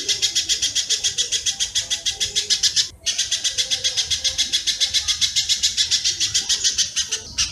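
Recorded spiderhunter (pijantung) and swiftlet (walet) calls played as a songbird training track: a dense, rapid run of sharp chirps, about ten a second, that breaks off for an instant twice.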